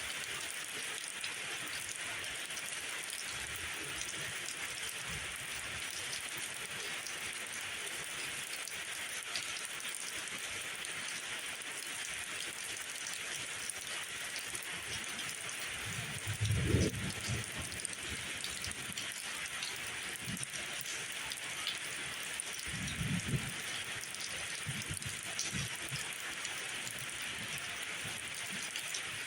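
Steady rain falling through forest trees, an even hiss of drops. A few soft low thuds break through, the loudest about halfway and another a few seconds later.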